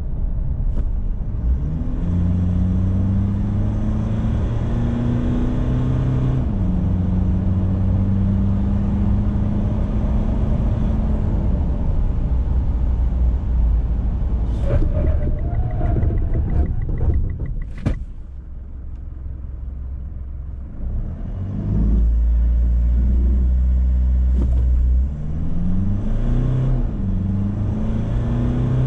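2019 Mitsubishi Triton's 2.4-litre turbo-diesel four-cylinder accelerating, its pitch climbing and then dropping sharply about six seconds in at an upshift of the six-speed automatic, then climbing again. Midway the engine eases off and there are a few sharp clicks, followed by a low rumble and the engine revving up and down again near the end.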